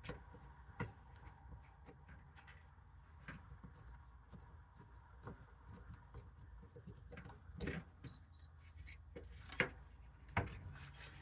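Scattered small clicks and knocks of plastic parts being handled as a caravan roof-hatch exhaust fan assembly is taken apart, the sharpest a little after the middle and near the end, over a faint low hum.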